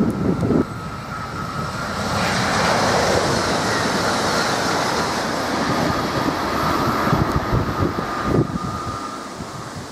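Southeastern Class 395 Javelin high-speed electric train passing at speed: a broad rush of air and wheel noise with a steady whine, building about two seconds in and fading near the end. Wind gusts on the microphone at the start and near the end.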